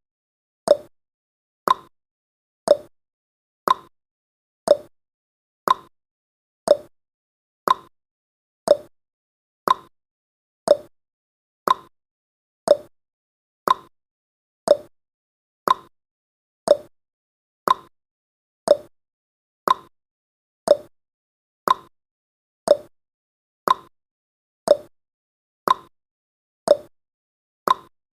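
Clock-style ticking sound effect of a countdown timer: one short, sharp tick every second, evenly paced, with silence between.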